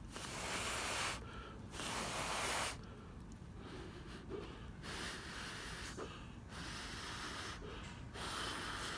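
A person breathing out heavily close to the microphone, about five long breaths in a row.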